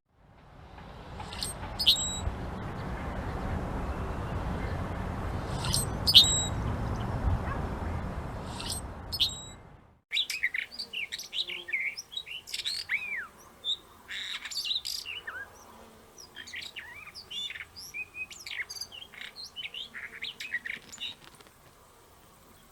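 Wild birds: a few short, sharp high chirps over a steady rushing background noise, then, after an abrupt cut about halfway through, a busy chorus of many quick, varied bird calls and songs that thins out near the end.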